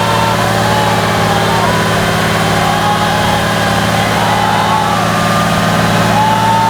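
Praga V3S 6x6 truck's air-cooled six-cylinder diesel engine running steadily, with a higher whine that rises and falls in pitch several times.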